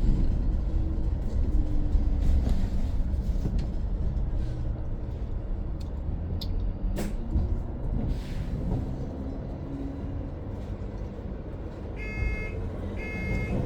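Cabin of a BYD BD11 battery-electric double-deck bus on the move: a steady low road and tyre rumble. Near the end, an electronic beep sounds twice, about a second apart.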